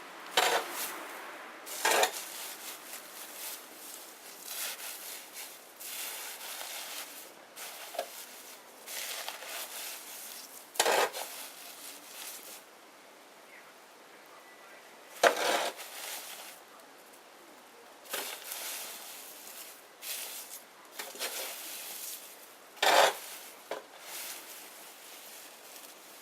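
Small wood bonfire crackling and hissing, with sharp pops every few seconds, the loudest about 2, 11, 15 and 23 seconds in.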